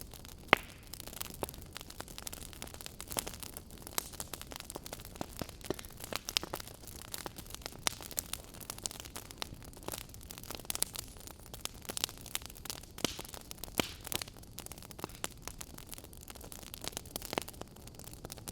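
Wood fire crackling in a fireplace: irregular sharp pops and snaps over a steady hiss, with the loudest pop about half a second in.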